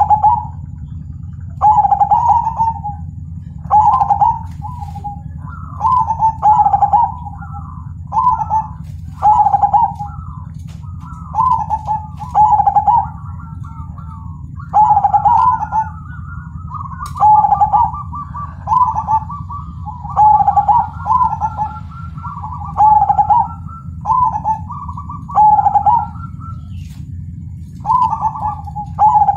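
Perkutut (zebra dove) singing its repeated coo phrase, about one phrase every one and a half to two seconds, with some longer, higher trilled notes in the middle. A steady low hum runs underneath.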